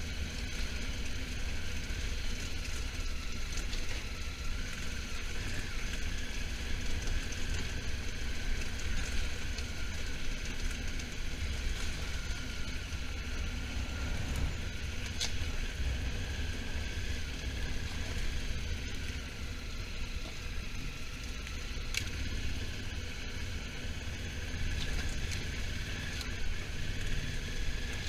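Honda Africa Twin motorcycle on the move: a steady low engine rumble under an even rush of wind noise, with no real change in pace.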